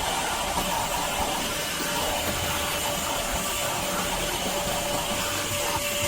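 LIGO 20V cordless wet/dry shop vacuum running steadily, an even rushing hiss with a thin steady whine.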